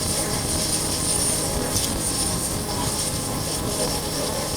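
Steady wind rush over the microphone of a moving motorcycle, with the Honda CB400X's parallel-twin engine running underneath at an even pace.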